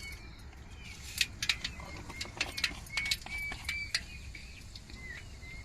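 Mustard seeds starting to pop and crackle in hot oil for a tempering: scattered sharp pops, most of them between about one and four seconds in.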